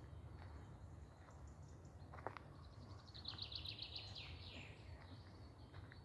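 Songbird singing in a forest: about three seconds in, a rapid run of high notes that falls in pitch over about a second and a half. A single short tap comes about two seconds in, over a faint low steady rumble.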